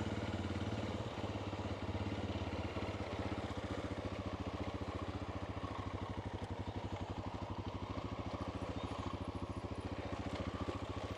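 Honda Dominator's single-cylinder four-stroke engine idling steadily with an even, rapid thump of its firing pulses.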